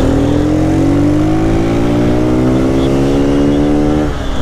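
Lifan KP motorcycle's single-cylinder engine accelerating, its pitch climbing steadily through one gear for about four seconds, then dropping sharply with a gear change near the end, over low wind rush.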